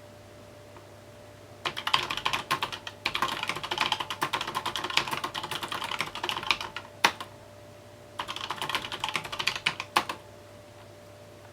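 Typing on a mechanical keyboard in quick runs of keystrokes: a long run starting about two seconds in, one loud single keystroke, then a shorter run, with pauses between.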